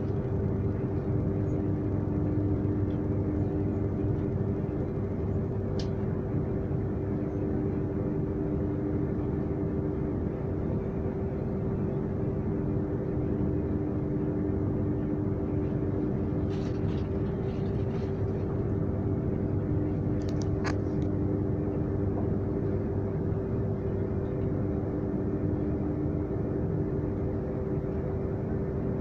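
Transilien Line P train running at a steady speed: a continuous rumble with two steady hum tones. A few faint clicks or rattles come about 6 s in and again around 17 and 20 s.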